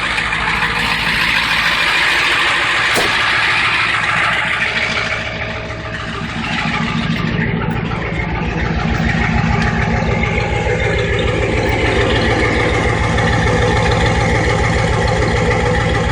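Ford 7.3 L IDI V8 diesel running at a steady, rhythmic high idle just after a cold start, loud, with diesel clatter. It runs smoothly, its new glow plugs and timer letting it start and settle well from stone cold.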